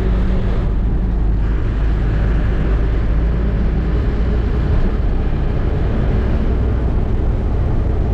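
Truck engine running steadily as the truck drives, the sound sitting mostly deep and low with an even engine drone.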